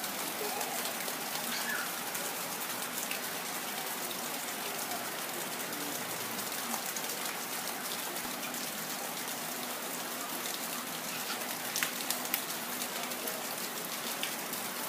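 Steady rain falling, with a few sharper drops ticking against something close by.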